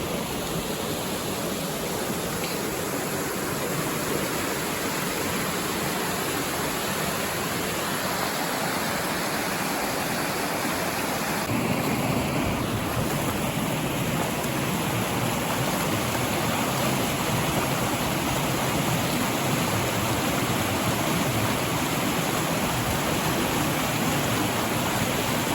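Mountain creek water rushing steadily over rocks, an even hiss that grows fuller and deeper about eleven seconds in.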